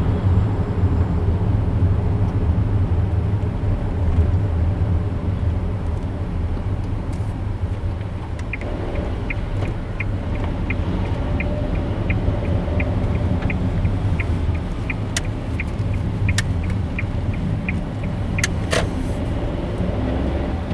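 A car driving, with a steady low rumble of engine and road noise. About eight seconds in, a regular ticking starts at about two to three ticks a second, and a few sharp clicks come near the end.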